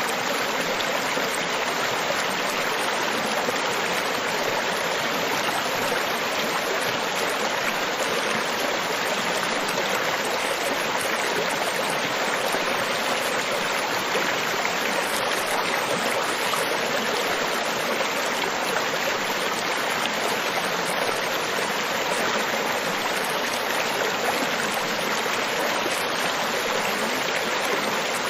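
Steady, unbroken rush of water from a tropical beach ambience, an even wash with no separate waves breaking or rising and falling.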